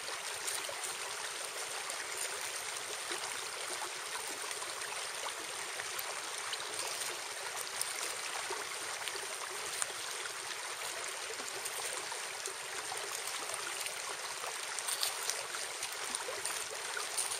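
Steady rushing of a flowing river, with a few faint clicks late on.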